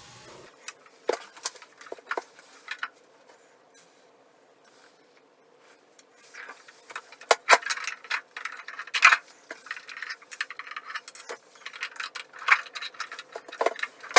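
Scattered clicks, light knocks and scraping as toilet-installation parts and tools are handled. They are sparse at first and grow busier from about six seconds in.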